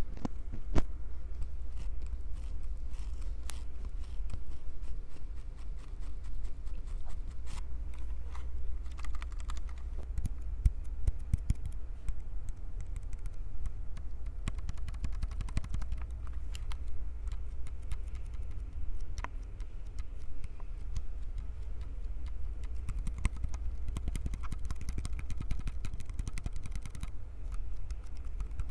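Fingers gripping, squeezing and tapping a Tascam recorder's microphones close up: a dense, irregular stream of small clicks and crackles over a steady low rumble of handling noise.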